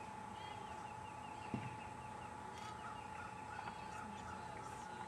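Faint outdoor birdsong, short scattered chirps, over a steady high electrical hum, with one soft thump about a second and a half in.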